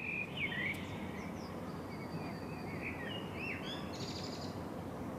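Outdoor ambience: a steady background hiss with birds chirping many times in short, quick calls, and a brief buzzy rattle about four seconds in.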